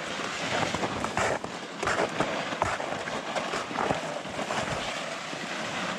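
Footsteps tramping through wet snow and mud at a steady walking pace, with loaded gear sleds scraping along behind.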